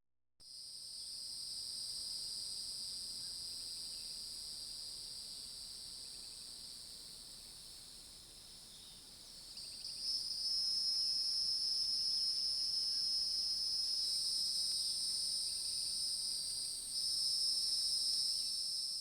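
A steady, high-pitched chorus of insects such as crickets, continuous with no breaks, growing louder about halfway through.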